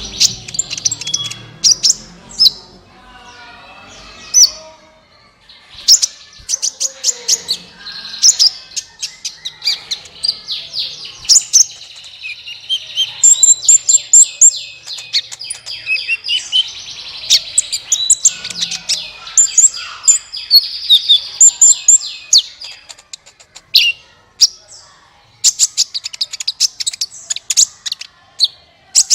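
Small songbird of the kind Indonesian bird-keepers call 'kolibri' (a sunbird) singing a long, rapid, high-pitched twittering song of quick chirps and trills, with short pauses.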